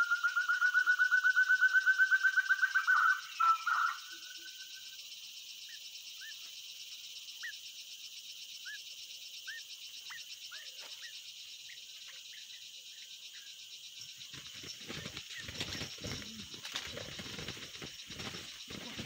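A bird's fast, evenly pulsed call, rising slightly in pitch, stops about four seconds in over a steady high insect buzz; a few short faint chirps follow. From about two-thirds of the way through come irregular rustles and knocks in the undergrowth.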